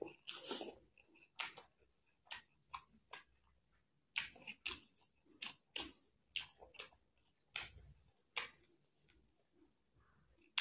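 Close-miked chewing and lip-smacking of a person eating rice and beef heart in gravy by hand: a string of short, wet clicks and smacks, irregular, about two a second, with quiet between them.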